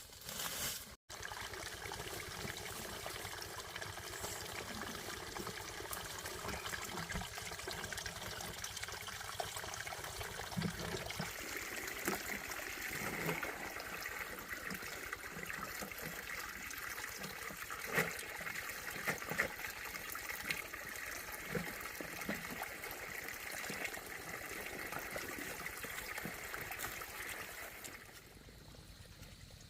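Water trickling steadily. The sound brightens about eleven seconds in and drops away shortly before the end.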